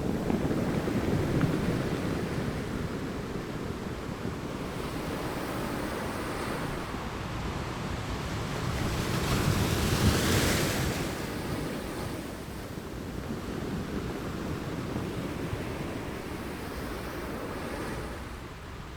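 Ocean waves breaking and washing up the shore, with wind on the microphone. The surf swells about a second in and again, loudest, around ten seconds in, then eases.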